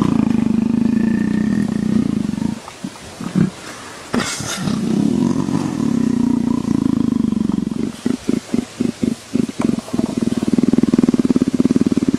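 Leopard purring, a deep rough rumble like a motorcycle, in long stretches with pauses between them. About two-thirds of the way in the purr breaks into a run of short separate pulses, about three a second, then runs on steadily again. A brief hiss comes about four seconds in.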